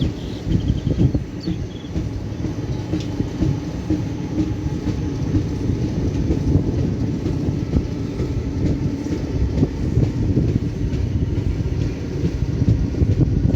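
Steady low rumble of a vehicle in motion, with a faint steady hum and scattered small clicks and rattles.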